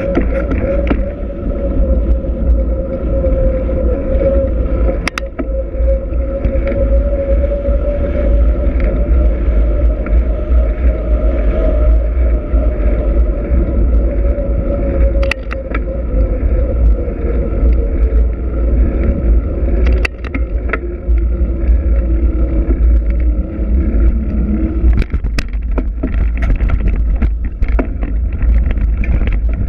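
Riding a Trek X-Caliber 8 hardtail mountain bike, heard through a GoPro microphone: heavy wind rumble over a steady hum that falls in pitch and fades about twenty seconds in. Scattered sharp clicks and knocks, several of them close together near the end.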